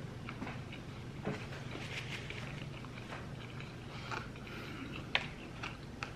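A person chewing a bite of a Chick-fil-A chicken sandwich close to the microphone: soft wet mouth clicks and crackles, with one sharper click about five seconds in, over a steady low hum.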